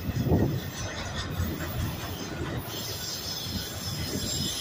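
Freight train of autorack cars rolling past close by: a steady rumble of steel wheels on rail with irregular clunks, one louder jolt just after the start, and a higher hiss joining about halfway through.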